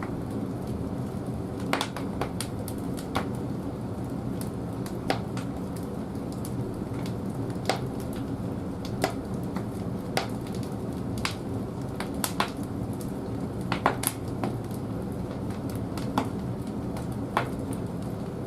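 Large firewood burning in the firebox of an old wood-fired boiler: a steady low rumble from the fire, with sharp crackles and pops coming irregularly about once a second.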